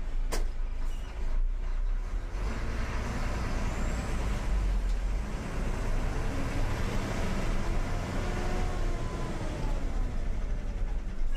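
Loaded lorry driving on the highway: steady diesel engine and road noise, with a sharp click about a third of a second in, and the noise swelling about two seconds in.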